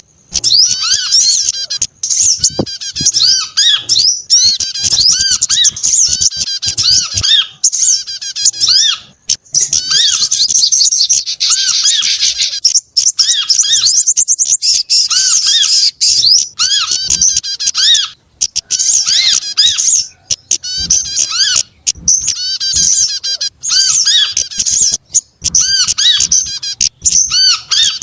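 Bird-trapping lure recording: calls of several small songbirds layered together, a dense, continuous chatter of rapid high chirps and twittering notes overlapping one another.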